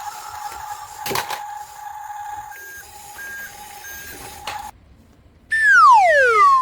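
Electronic sound effects: a steady high tone with a click about a second in and three short beeps, then near the end a loud falling whistle-like glide.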